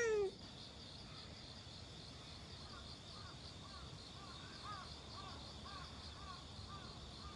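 Insects trilling steadily in an autumn chorus. A short, loud pitched call sounds right at the start, and from about three seconds in a small arched chirp repeats about twice a second.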